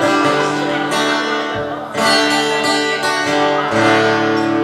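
Acoustic guitar strumming chords and letting them ring, with fresh strums about two seconds in and again near the end.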